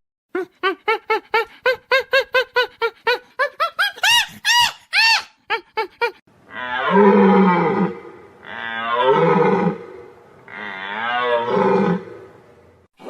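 An animal calling: a quick run of short pitched calls, about four a second, then three long calls with a wavering pitch.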